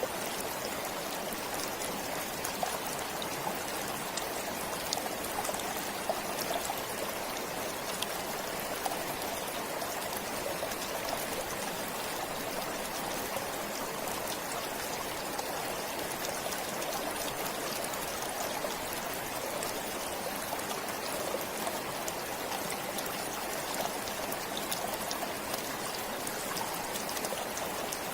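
Stream water flowing steadily, an even rush with faint scattered splashes and drips over it.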